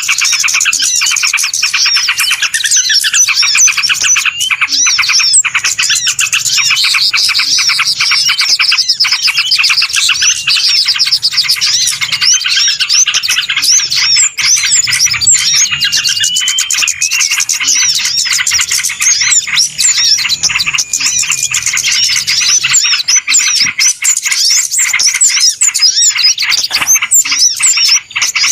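A dense, noisy chorus of many small birds chirping and twittering at once, calls overlapping without pause: a bird-lure recording meant to draw in small birds.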